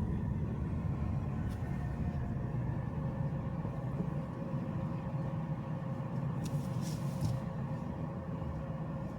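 Car driving, heard from inside the cabin: a steady low road-and-engine rumble with a faint steady whine, and two short bursts of noise, a brief one about a second and a half in and a longer one about six and a half seconds in.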